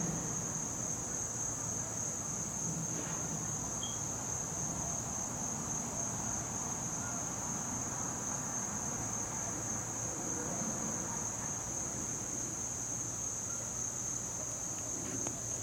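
Crickets trilling in one steady, high-pitched, unbroken drone, with a brief high chirp about four seconds in.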